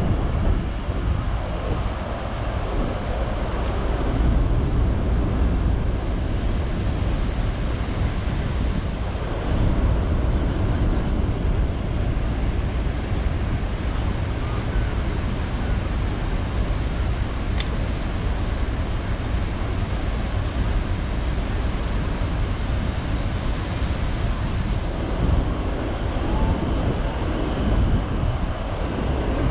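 Horseshoe Falls at Niagara: the steady, deep rush of a huge volume of falling water, with wind on the microphone.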